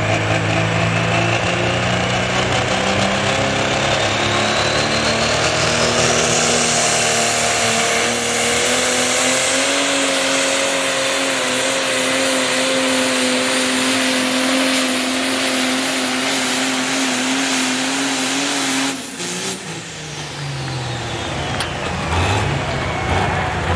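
Light pro stock pulling tractor's diesel engine at full throttle under load, its pitch climbing for the first several seconds and then holding high, with a high whine rising alongside. About 19 s in the throttle is cut and the engine winds down, then revs briefly again near the end.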